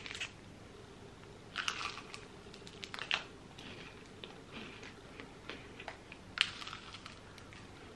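A person chewing a crispy rice-cereal bar with pretzel pieces, giving several scattered crunches.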